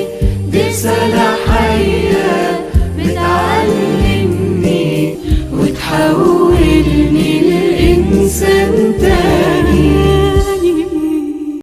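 Choir singing an Arabic Christian hymn (tarnima), over a bass line that changes note about once a second and occasional percussion hits.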